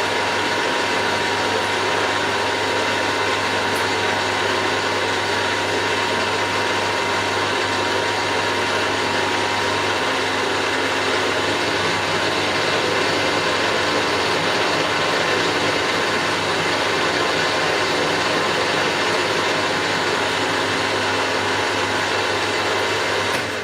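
Milling machine running steadily with an even mechanical whir and hum, which stops right at the end.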